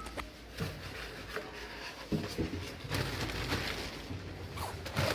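Handling noise: items being moved about, rubbing with a few light knocks and clatters scattered through.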